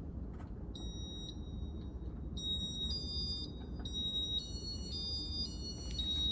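Casablanca ceiling fan's IntelliTouch electronics beeping in demo mode: a run of high electronic beeps at changing pitches, some overlapping like a little tune, starting about a second in and going on to the end.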